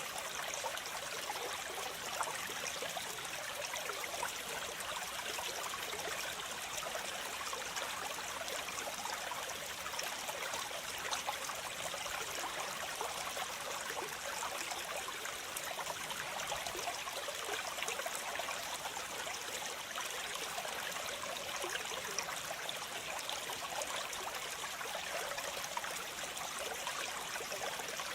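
Waterfall: water falling and splashing in a steady, unbroken rush, mostly a bright hiss with little low rumble.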